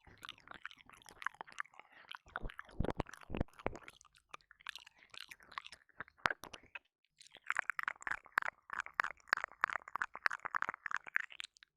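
Close-up ASMR ear-licking mouth sounds on a binaural microphone: wet clicks, licks and smacks come in a dense string. A few low thuds sound about three seconds in. The clicking becomes a fast, unbroken run in the second half.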